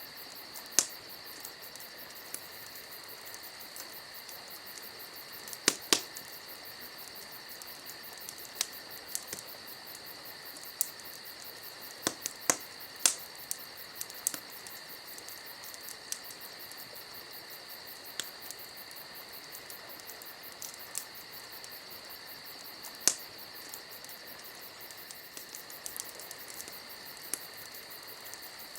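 Campfire crackling, with sharp irregular pops and snaps, over the steady high chirring of crickets.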